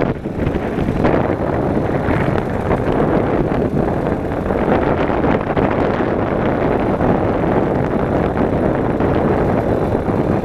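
Yamaha motorcycle under way: engine running steadily under a heavy rush of wind over the microphone.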